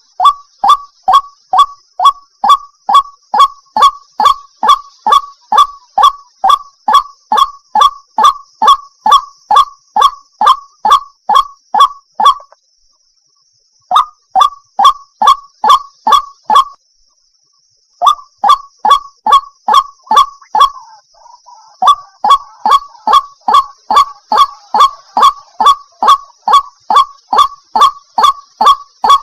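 Recorded white-breasted waterhen (ruak-ruak) call played as a bird-catching lure: loud, honking notes repeated about three a second, broken twice by short silent gaps around the middle.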